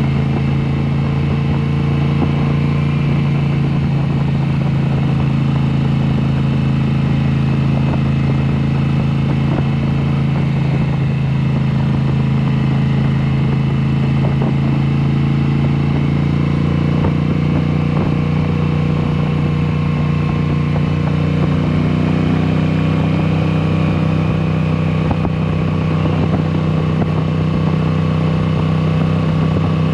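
2022 Moto Guzzi V7 Special's 853 cc air-cooled V-twin running through Mistral exhausts with the dB killers removed. Its note holds steady and shifts slightly in pitch about halfway through.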